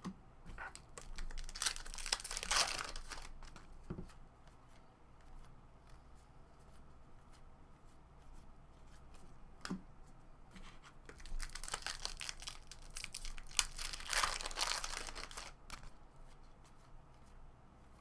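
Trading card pack wrappers being torn open and crinkled by hand, in two spells about ten seconds apart, with a few light clicks between.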